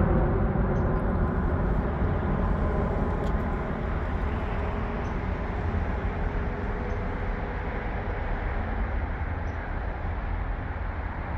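Steady rumble of road traffic from a nearby highway, easing slowly in loudness.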